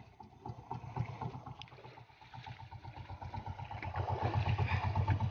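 Engine of a small motorized outrigger boat (bangka) running underway with a rapid, even chugging, getting louder about four seconds in, over the rush of water and wind.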